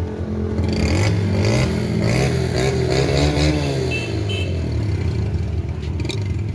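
Old diesel engine running steadily. For a few seconds its pitch climbs and then falls back, with metallic clatter over it.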